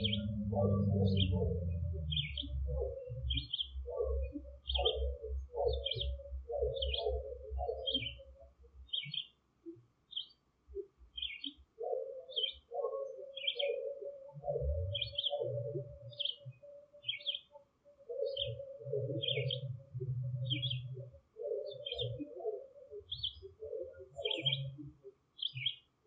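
A bird repeating a short high chirp about once a second, over irregular runs of lower-pitched sound and a low rumble that comes and goes.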